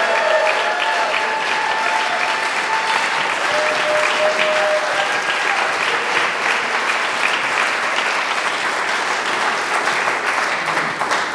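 Large audience applauding, with a few long cheers in the first five seconds; the applause dies away near the end.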